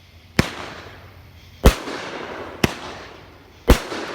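A ShowTime Fireworks Wild-N-Wacky 7-shot consumer fireworks cake firing, four sharp bangs about a second apart, each trailing off in a fading hiss.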